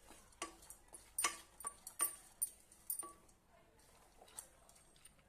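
Metal utensil clinking and tapping against a metal cooking vessel, about ten sharp, irregular clinks with a short ring, mostly in the first three seconds.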